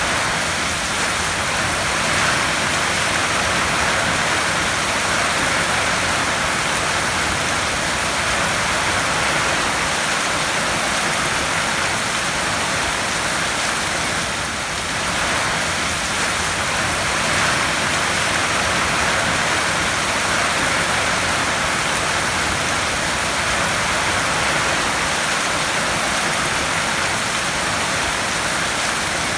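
Heavy rain falling steadily on a tin roof, an even dense patter.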